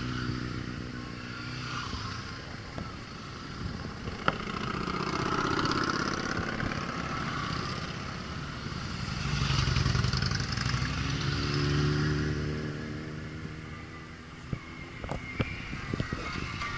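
A stream of motorcycles riding past one after another, engines swelling as each approaches and fading as it goes, the loudest passes about five, ten and twelve seconds in. A few sharp clicks stand out, one about four seconds in and several near the end.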